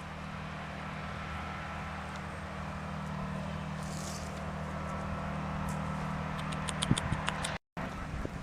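Steady low mechanical hum, like a motor running, with a few faint clicks near the end; the sound drops out completely for a moment just before the end.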